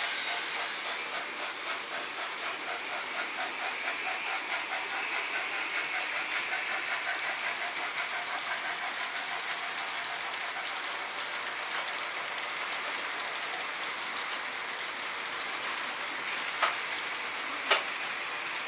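H0 scale model trains running on the layout's track: a steady rolling rumble with fast, even clicking of wheels over the rails in the first half, easing off later. Two sharp clicks come near the end.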